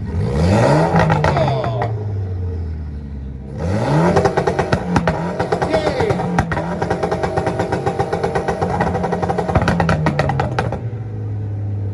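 Mitsubishi car's engine blipped up to high revs and let fall back, then revved again and held on a two-step launch-control rev limiter for about seven seconds, with rapid popping and crackling from the exhaust. It drops back to a steady idle near the end.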